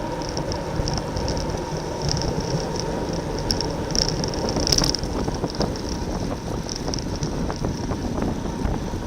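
Wind rushing over the microphone of a camera on a racing bicycle at speed, over a steady rumble of road noise, with a high-pitched buzz that pulses on and off several times a second.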